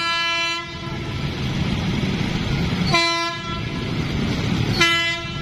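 Train horn sounding three short blasts over steady road-traffic rumble: one ending about half a second in, one about three seconds in and one near the end.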